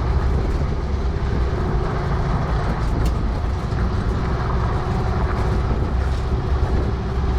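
1950s VW split-window bus with its air-cooled flat-four engine running steadily as it drives slowly over a rocky dirt trail. The low rumble carries a few light knocks from the bus jolting over the rocks.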